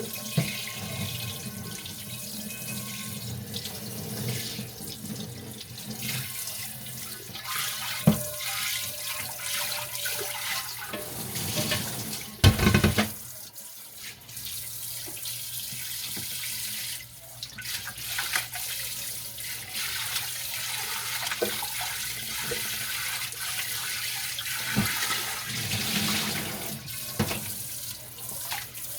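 Kitchen tap running into a sink while dishes are washed by hand, with scrubbing and a few knocks of dishes against the sink, one louder knock about halfway through.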